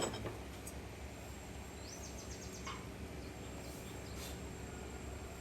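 Quiet background: a steady low hum, a click at the start, and a short, rapid, high-pitched chirping trill about two seconds in.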